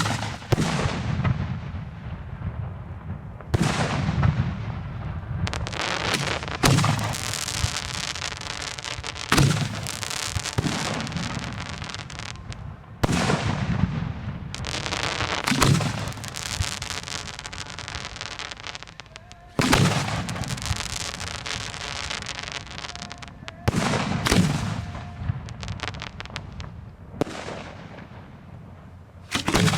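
Aerial fireworks shells firing and bursting, close to the shoot site. A sharp report comes every few seconds, about a dozen in all, each trailing off in a fading rushing crackle.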